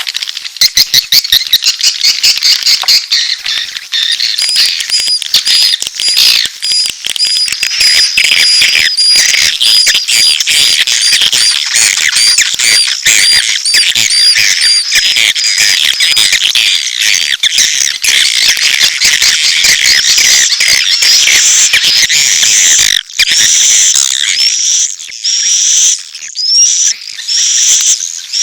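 Recorded swiftlet lure call: a dense chorus of edible-nest swiftlet twittering with rapid clicks, mixing adult courtship calls and chick begging calls. A short hooked chirp repeats a few times a second through the first half.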